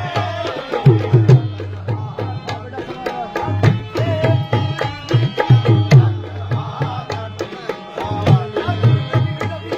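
Qawwali accompaniment without singing: a dholak-style hand drum plays a fast, dense rhythm of sharp strokes and deep bass hits, with a melody line above it.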